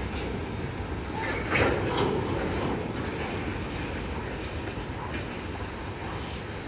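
Train rolling past on the track: a steady rumble of wheels on rail, with a few sharp clacks. The loudest clack comes about a second and a half in.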